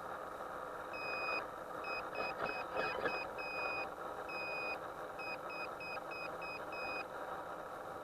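A string of electronic beeps at one pitch, some long and some short, over a steady low running rumble.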